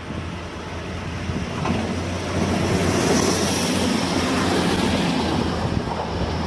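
Diesel multiple-unit railcar passing close by: the engine and the rumble and hiss of its wheels on the rails swell about two seconds in, stay loud for a few seconds, then ease off. Under it a steady low diesel hum runs on throughout.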